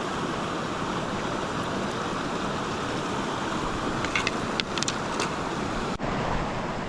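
Small mountain stream's water rushing steadily over rocks, with a few brief high-pitched sounds about four to five seconds in.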